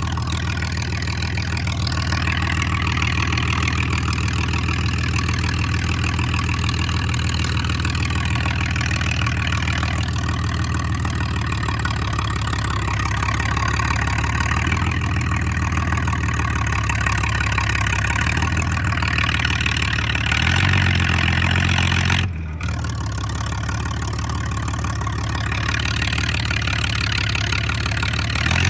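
John Deere 4010 LP tractor's propane-fuelled six-cylinder engine running steadily near idle with no muffler, straight-piped so the exhaust comes right out of the manifold and is very loud. It gets louder around two-thirds of the way in, with a brief break just after.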